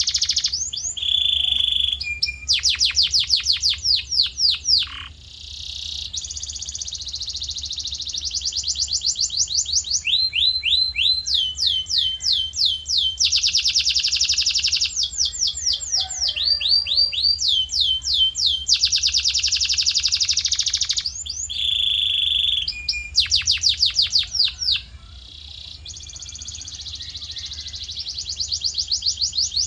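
Male canary in full song: long rolling trills of rapidly repeated notes, each phrase held for a second or more before switching to a new tour, some falling sweeps and some steady buzzing rolls. A faint low hum runs underneath.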